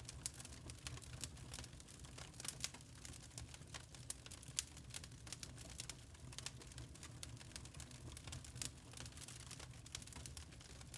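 Burning charcoal crackling: a constant run of small irregular snaps and ticks, a few sharper pops among them, over a low steady rumble.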